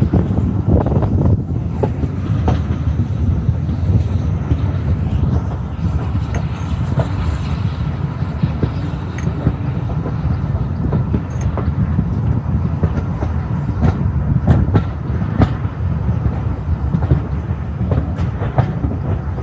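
Passenger coaches of a steam-hauled train running along the track, heard from an open carriage window: a steady low rumble of wheels on rail with irregular sharp clicks and knocks as the wheels pass over rail joints.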